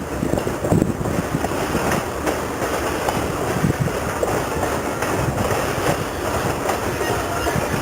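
Ferromex freight train rolling past, with steady wheel and car noise on the rails.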